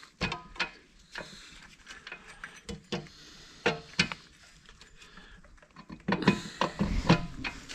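Scattered metal clicks and knocks of tools and parts being handled during a corn-head rebuild, then a louder stretch of clanking and scraping with a low thud about six to seven seconds in.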